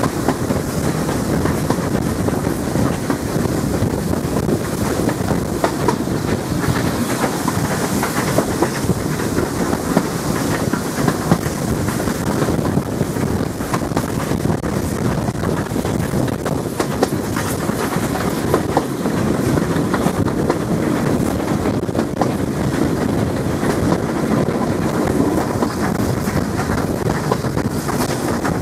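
Railway carriages running steadily along the line: a continuous rumble with wheels clicking irregularly over the rail joints.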